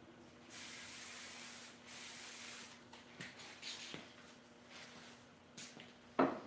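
An aerosol spray can hissing steadily for about two seconds, followed by a few light clicks and handling noises and one sharp knock near the end.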